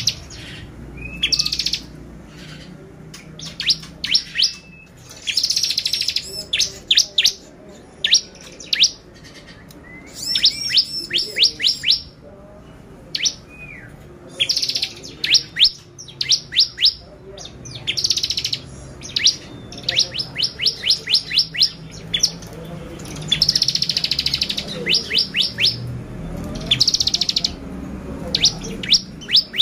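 Bar-winged prinia (ciblek) singing: phrase after phrase of rapid, sharp chirps and buzzy trills, each phrase a second or two long with short pauses between.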